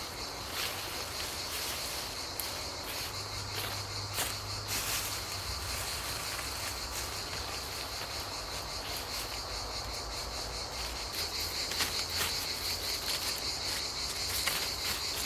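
Steady high-pitched insect chorus, typical of crickets, with scattered short clicks and snaps that come more often near the end.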